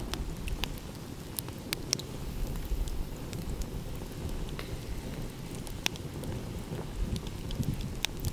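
Wood campfire crackling, with irregular sharp pops and snaps over a low steady rumble of sea and wind.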